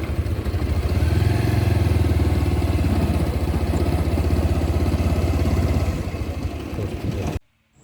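Motorcycle engine running steadily with an even, rapid beat of firing pulses, a little louder from about a second in, then cutting off suddenly near the end.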